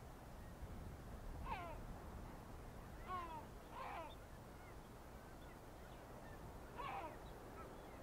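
Birds calling: four short calls, each sliding down in pitch, spaced a few seconds apart, two of them close together a little before the middle.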